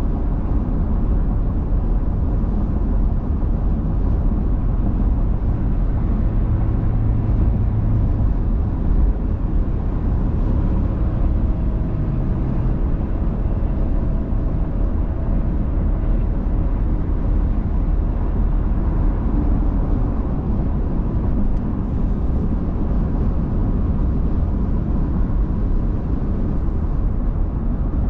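A car driving on the road: steady engine and tyre rumble, with a faint hum that rises and fades in the middle.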